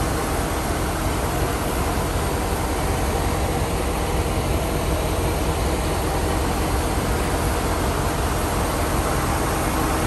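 The factory Rover aluminium V8 of a 1974 MGB GT V8 idling steadily and low, hot, with its electric radiator fans whirring.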